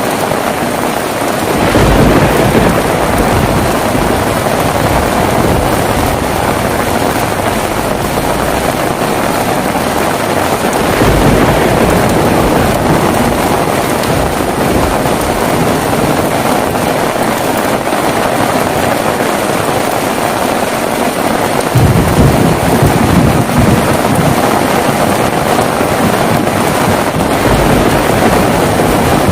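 Heavy rain falling steadily, with low rumbles of thunder that roll in about two seconds in, again around eleven seconds, and near twenty-two seconds, with a shorter one near the end.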